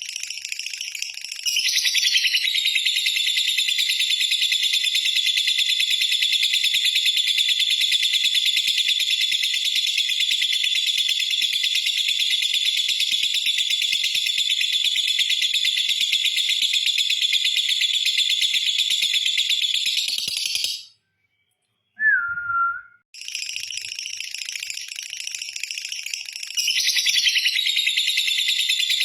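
Lovebird giving its long 'ngekek' song, a rapid high buzzing chatter held unbroken for about twenty seconds. It breaks off briefly, with one short falling whistle in the pause, then starts again, softer at first and then full.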